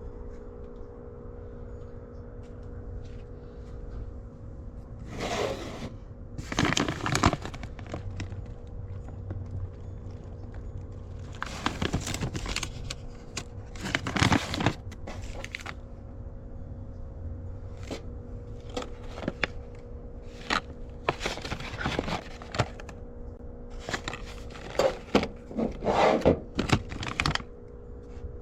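Rummaging through dumpster trash: repeated bouts of rustling, crinkling and tearing, each a second or so long and coming thicker in the second half, over a steady low hum.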